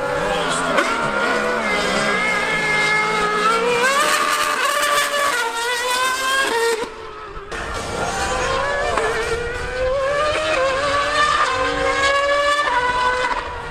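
High-revving racing engine accelerating hard: its pitch climbs and drops back several times as it shifts up through the gears, with a brief dip in level about halfway through.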